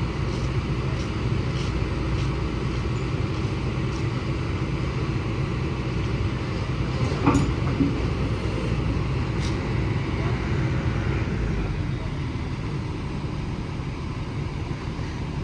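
A motor vehicle's engine running steadily with a low rumble, with a single short knock about seven seconds in.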